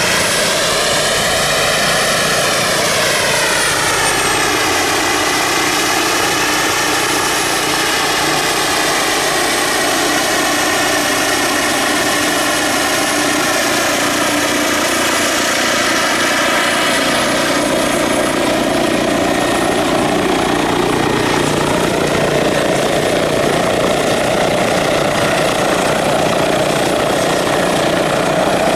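Radio-controlled scale model helicopter in flight: a steady, loud whine from its rotor and drive that slowly rises and falls in pitch as it manoeuvres.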